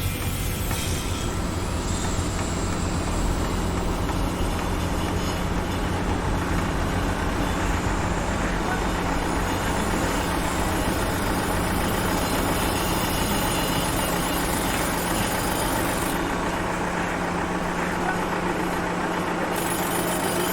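Heavy vehicle engine running steadily on a construction site, a constant low hum and rumble under a wash of site noise.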